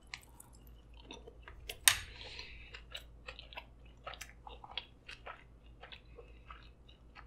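A person chewing a mouthful of sushi roll close to the microphone, making an irregular run of short, wet mouth clicks, with one louder click about two seconds in.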